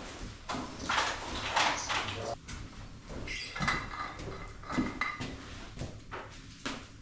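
Clatter and rustling of camping gear and cookware being handled, with a run of knocks and scrapes.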